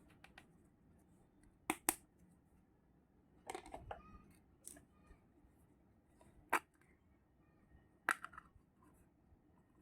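Sharp little clicks and clacks of miniature toy kitchen utensils being handled and set down, about half a dozen separate clicks with pauses between.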